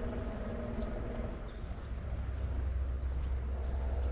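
Insects singing in one steady, unbroken high-pitched drone, over a low steady rumble.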